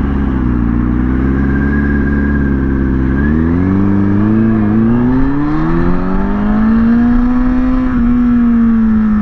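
Kawasaki ZX6R inline-four engine pulling under acceleration at highway speed, its note stepping up about three seconds in and then climbing steadily before easing off slightly near the end.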